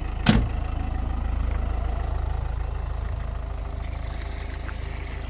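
A motor vehicle's engine running with a steady low rumble, and a single sharp thump about a third of a second in.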